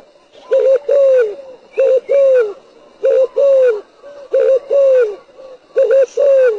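Spotted dove cooing its repeated song: each phrase is a quick double coo followed by a longer falling coo, repeated about five times, one phrase every second and a bit.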